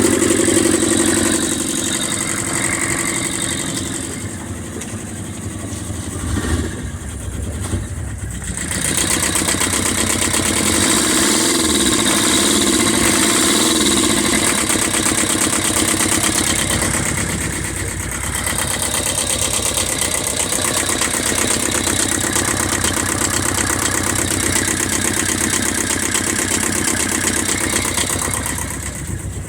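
Engine running on a test run. It eases off about four seconds in, picks up again around nine seconds, then runs fairly steadily.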